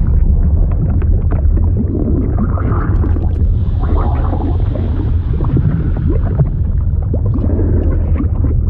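Liquid sound effect: a steady deep rumble with swirling, shifting sounds above it and many small pops.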